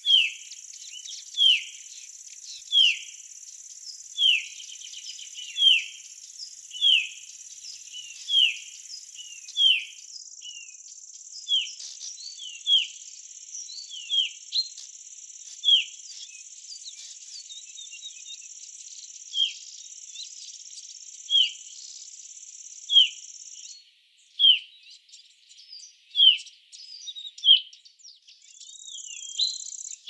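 A bird repeating a short, downward-slurred call about once every second and a half, over a steady high-pitched insect chirring that drops out about 24 seconds in and returns near the end.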